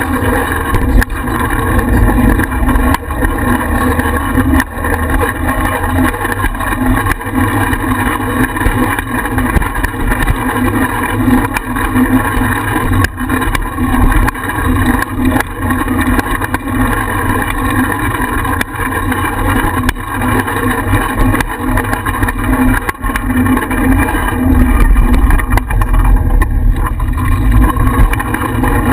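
Wind buffeting the microphone of a bicycle-mounted GoPro as the bike rides along, with rumble from the ride and frequent small knocks and rattles.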